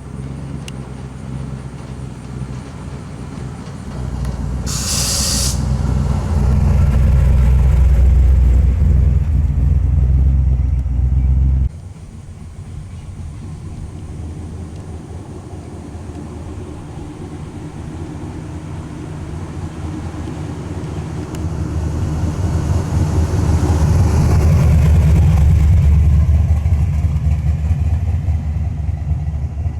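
Muscle car engines running with a deep, loud rumble. A short hiss comes about five seconds in, and the sound drops off abruptly about twelve seconds in. A second engine then builds up loud again over the last third.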